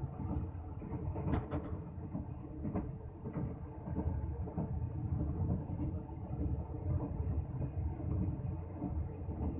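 Musa Pak Express passenger train running at speed, heard from inside the carriage: a steady low rumble of wheels on the track with a few light knocks.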